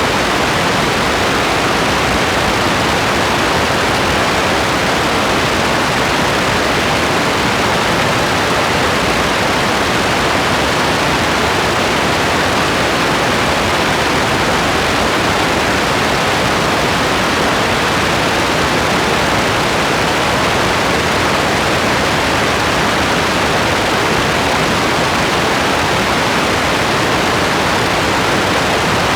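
Steady rain, an even, unchanging hiss with no separate drops, thunder or pauses standing out.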